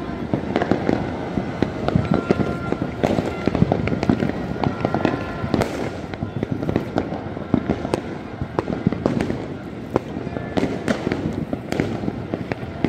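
Fireworks and firecrackers going off across a whole city at once: a dense, unbroken crackle of bangs and pops from near and far, with no pause.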